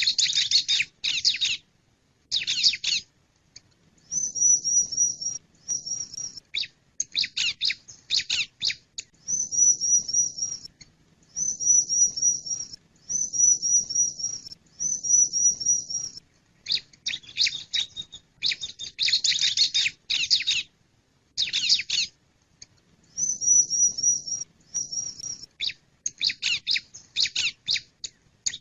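Male bar-winged prinia (ciblek) calling over and over. Its phrases run about a second each with short gaps between them, alternating between bursts of rapid, scratchy chirps and runs of quick, repeated high notes.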